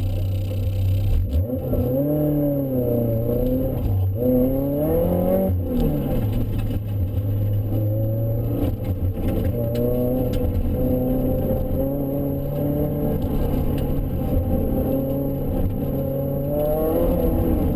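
Supercharged Mazda MX-5's four-cylinder engine at speed on track, heard from inside the cabin. Its pitch rises and falls twice in the first six seconds, then holds steadier with small rises and dips.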